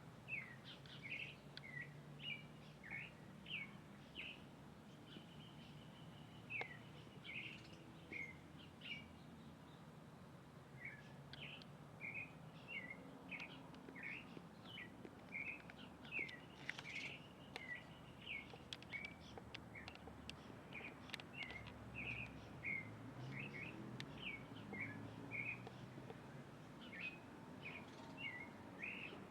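Small birds chirping: a long run of short, high chirps, many falling in pitch, with a brief pause about ten seconds in.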